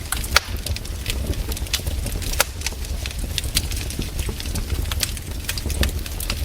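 Wood campfire crackling, with irregular sharp pops and snaps, a few louder than the rest, over a steady low rumble.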